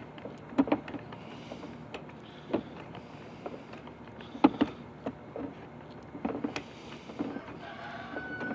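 Sewer inspection camera being pushed down a drain line: irregular knocks and clicks from the push cable and camera head over a steady low hum, with a short whine near the end.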